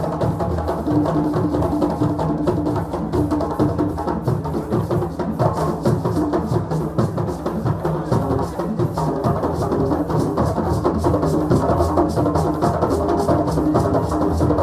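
Several drums playing a fast, dense rhythm, steady in loudness throughout.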